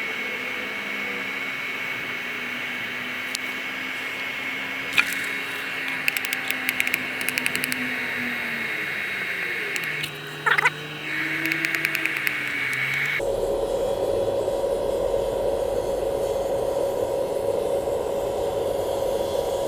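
Steady rushing noise of an electric blower forcing air into a charcoal-fired paint can furnace, with a faint motor whine, and a run of sharp clicks around the middle. About two thirds of the way through, the noise changes tone abruptly.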